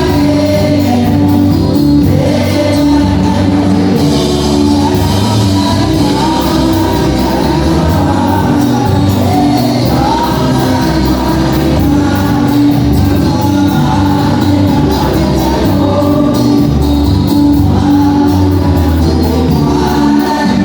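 Gospel music: a choir singing over a steady beat and instrumental accompaniment.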